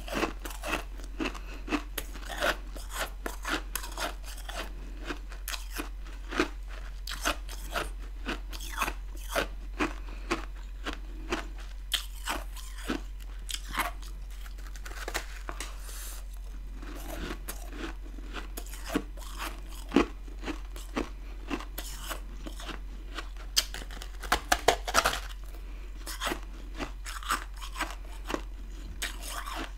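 Chunks of freezer frost ice being bitten and chewed close to the microphone: many sharp crunches at irregular intervals, with a tight flurry of them about three-quarters of the way through. A steady low hum sits underneath.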